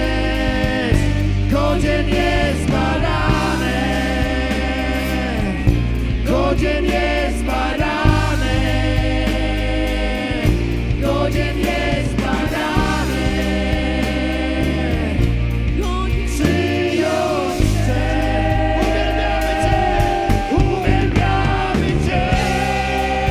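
Live worship band music with singing: voices over a steady bass line and drums.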